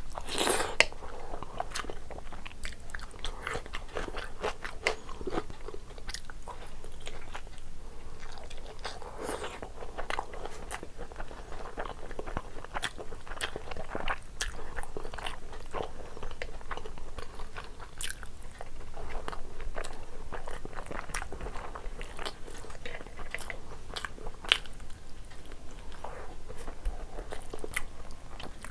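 A person chewing mouthfuls of curry-soaked rice and egg eaten by hand, with many small wet mouth clicks and the occasional crunch.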